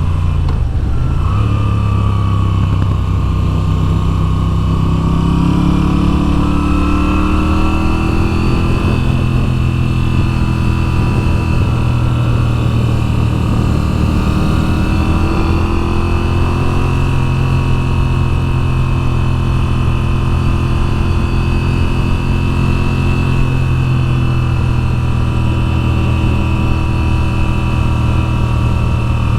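Moto Guzzi V7's air-cooled transverse V-twin engine, heard from a camera mounted on the bike, running under load as it is ridden along a winding road. The engine pitch dips about a second in, climbs for several seconds, drops around ten seconds, rises again and then holds steady.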